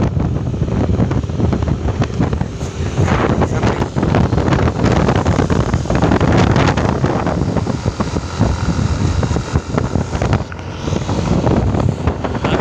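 A vehicle driving along a road: a steady rumble of engine and road noise, with wind buffeting the microphone.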